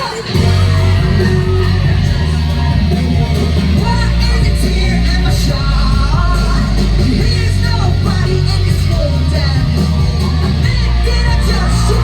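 Live band music over a loud concert PA, with a heavy, steady bass and sung or shouted vocals from the stage and crowd.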